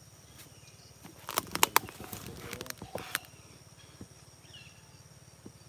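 A quick cluster of sharp knocks and clicks lasting about two seconds, loudest near the middle, with faint bird chirps in the background.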